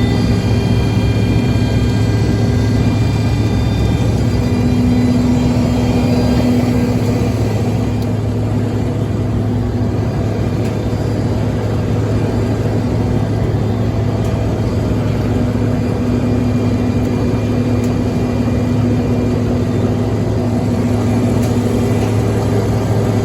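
JCB tractor running steadily, driving a Bizon straw and hay grinder, with a continuous deep engine drone and machine noise. The sound eases slightly for a few seconds in the middle.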